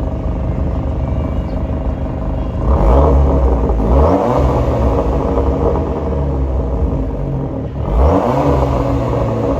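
Abarth 595/695's 1.4-litre turbocharged four-cylinder idling through an HKS VIITS valved exhaust, revved twice while standing: once about three seconds in and again near the end, each rev dropping back to idle.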